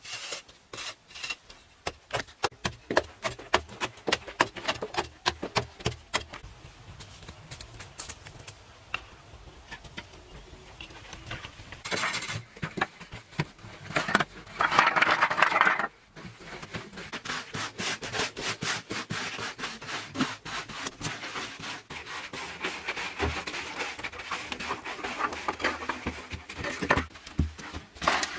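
Irregular knocks and clicks mixed with scraping and rubbing, with a louder, continuous rasping stretch about halfway through.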